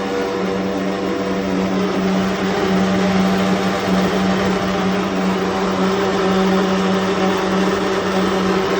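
Baxi Eco5 Compact 24F gas boiler humming loudly and steadily, one strong low drone over a rushing noise, as it heats its indirect-fired hot water tank. The hum persists even though the heating system and tank have been flushed.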